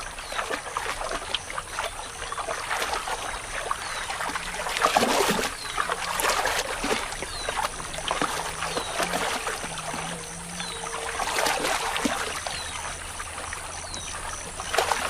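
Irregular splashing and sloshing of shallow, muddy water, as of animals wading and feeding, with dripping between the splashes. The splashing is loudest about five seconds in, and a faint high chirp repeats every second or so.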